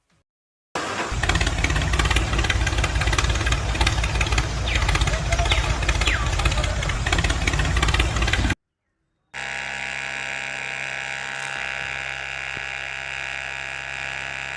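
Engine sound in two cut-together stretches: first a rough, loud running with a strong low rumble for about eight seconds, then, after a short silent gap, a steady even hum like an engine idling.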